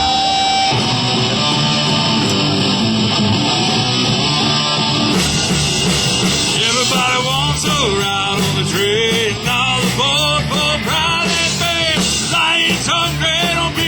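Rock band music: a dense wall of guitar and drums, joined from about six seconds in by a bending, melodic lead line over a steady beat.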